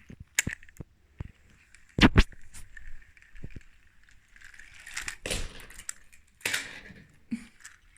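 Handling noise: scattered clicks and knocks, the loudest about two seconds in, with two short scraping rushes about five and six and a half seconds in.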